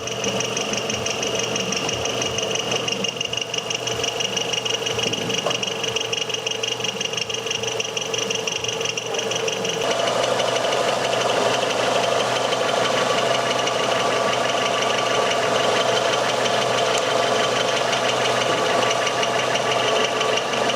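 Renault Scenic's K4M 1.6 16-valve petrol engine running with a fast, even ticking knock; it gets a little louder about halfway through. The mechanic puts the noise down either to the timing-belt tensioner/damper or to a rusted rocker arm.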